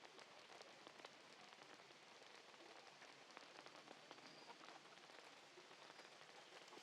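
Steady rain falling, faint, with many small drop ticks on surfaces.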